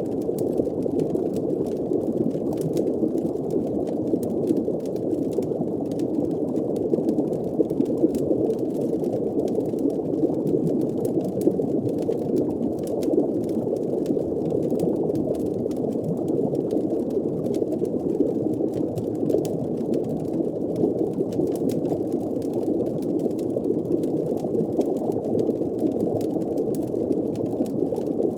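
Underwater ambience: a steady, muffled rushing wash with faint scattered crackles over it.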